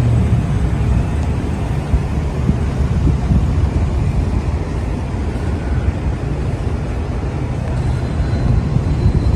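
Truck engine and exhaust running with a low, rough note that stays fairly steady.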